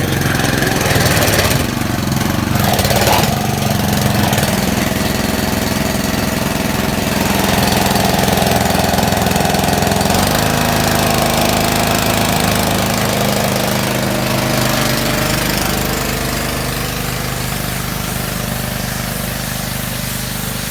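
Gas-engine pressure washer running steadily under load, with a hiss of spray over the engine note. The engine's pitch shifts slightly about halfway through.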